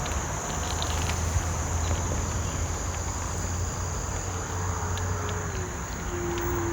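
Ninebot F2 electric kick scooter riding along, its hub motor giving a faint whine that shifts in pitch with speed over tyre and wind noise. A steady high insect drone runs underneath, with a few small clicks.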